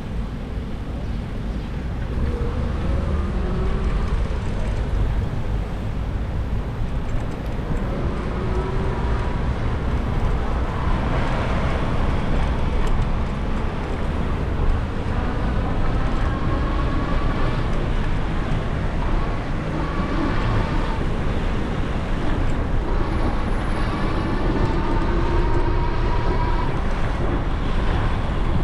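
Wind rushing over the microphone and a steady low rumble while riding an e-bike, with faint whines that rise in pitch again and again.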